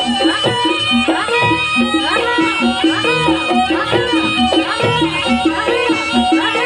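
Live Javanese folk-dance music. A shrill reed wind instrument, the slompret shawm, plays a bending, wavering melody over a steady repeating pattern of struck pitched notes and drum beats.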